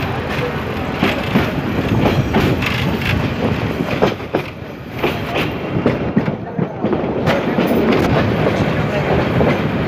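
Moving passenger train heard from an open carriage window: a steady running rumble with its wheels clattering over the rail joints in irregular clicks.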